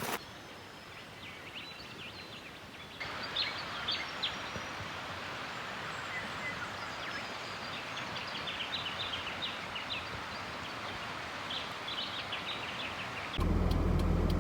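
Outdoor bush ambience with many small birds chirping in short, high, repeated calls. About a second before the end it gives way to a steady low vehicle engine hum heard from inside the cab.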